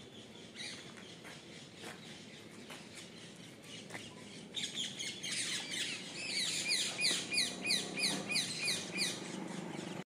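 Small birds chirping. The chirping thickens about halfway through into a quick, regular series of short falling chirps, over a low background rumble.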